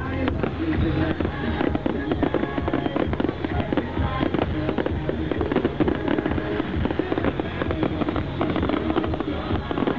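Fireworks display going off in a rapid, continuous string of bangs and crackles, with music playing along.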